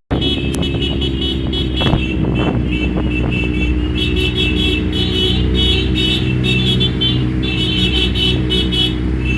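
Motorcycle engines running steadily, with a high-pitched tone that pulses on and off, stronger from about four seconds in.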